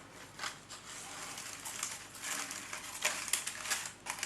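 Crackly rustling and ticking of wire-stemmed craft flowers being handled and pushed into a bouquet, in short irregular bursts that grow louder after about three seconds.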